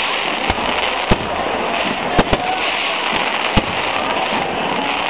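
Fireworks display: about five sharp bangs of bursting shells over a steady noisy background.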